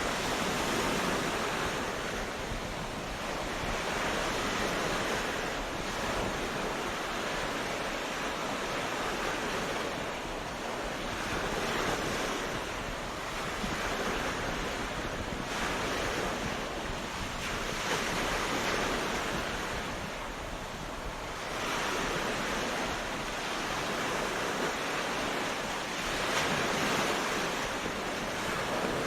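Ocean surf washing onto a beach, a continuous hiss of breaking waves that swells and eases every few seconds.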